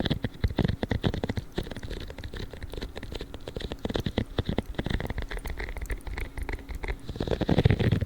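Spiky gloves rubbed and scratched in quick strokes, a fast, irregular crackling and scratching that grows louder and denser about seven seconds in.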